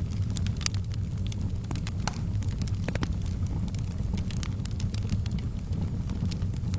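Fire burning in a fireplace, with a steady low rumble and frequent irregular crackles and pops.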